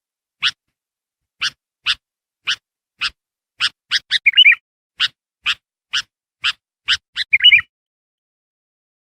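Sooty-headed bulbul (kutilang) calling: a run of short, sharp call notes about two a second, twice broken by a brief, louder warbled phrase. This is the bird's lure call, used to draw in wild bulbuls.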